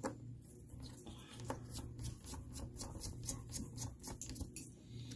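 Small screwdriver driving screws back into a laptop's plastic screen housing: a run of faint, irregular clicks and light scrapes of the tool turning in the screws.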